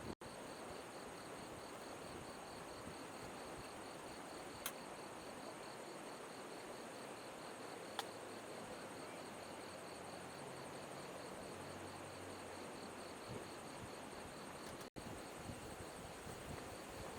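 Crickets trilling steadily in rapid, even pulses over a faint steady rush of flowing river water.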